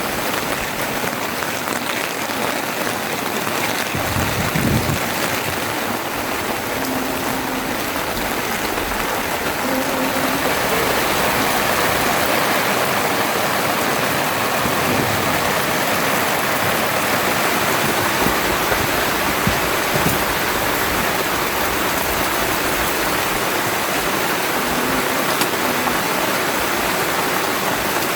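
Heavy rain falling in a steady, dense hiss that grows slightly louder about ten seconds in, with a brief low thump near five seconds in.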